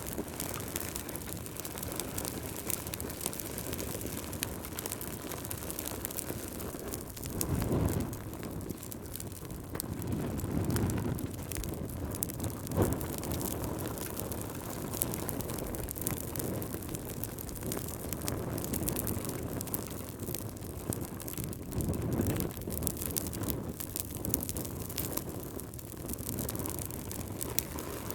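A wood fire crackling in a fireplace over a steady low rumble of wind that swells in gusts about three times.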